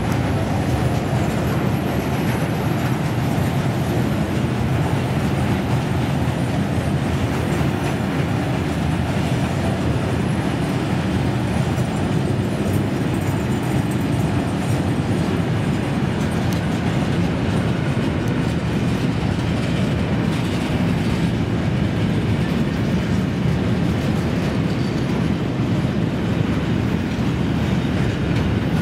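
Freight train wagons, loaded hoppers followed by open wagons, rolling steadily past at close range with a continuous wheel clatter.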